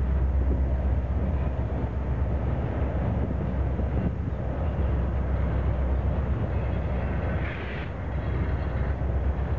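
Freight train of steel gondola cars rolling past close by, with a steady low rumble and clatter of wheels on rail. A brief high squeal comes about three-quarters of the way through.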